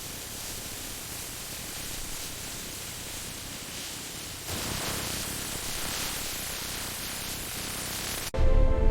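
Steady, even hiss of noise that grows a little louder about halfway through; music with a deep bass cuts in just before the end.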